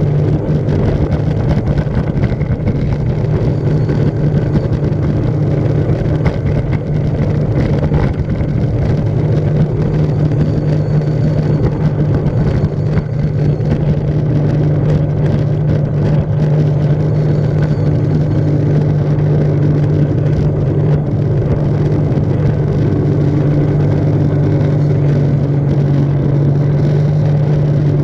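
Personal watercraft (jet ski) engine running steadily at a near-constant pitch throughout.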